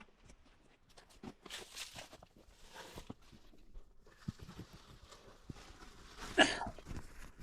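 Footsteps, scuffs and scraping on rock and grit as a person clambers into a small rock shelter, with scattered small knocks and a louder scuff about six seconds in.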